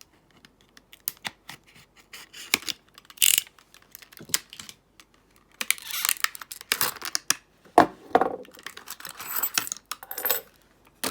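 Plastic blister packaging of a new padlock being cracked and torn open by hand: irregular crackling, tearing and crinkling with sharp clicks, coming in several bursts, the loudest about eight seconds in.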